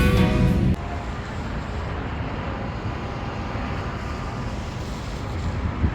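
Guitar music cuts off under a second in, leaving a steady rumble of outdoor background noise.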